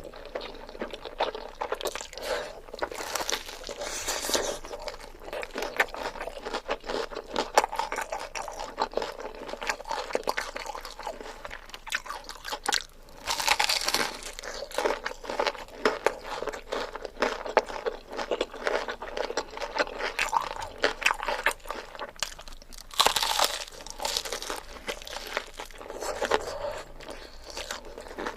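Close-miked eating sounds: a person chewing and biting big mouthfuls of carbonara fire noodles, with crunchy, crackly mouth noises. There are louder surges of chewing about 3, 13 and 23 seconds in.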